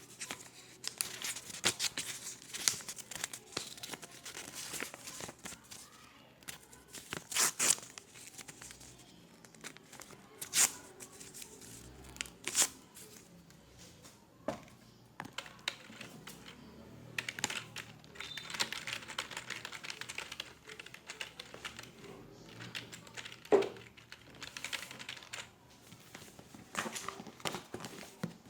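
Office ambience: irregular keyboard and mouse clicks and taps with rustling, and a few louder knocks scattered through.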